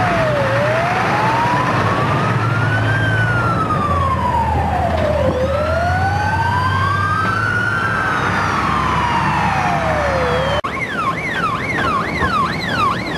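Emergency-vehicle sirens wailing in slow rising-and-falling sweeps, with a second siren joining about five seconds in, over a low engine rumble. About ten seconds in, the sound cuts to a fast yelping siren.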